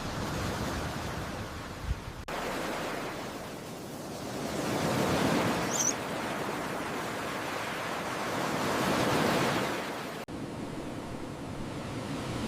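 Ocean surf washing onto a beach: a steady hiss of waves that swells twice and breaks off abruptly about two and ten seconds in.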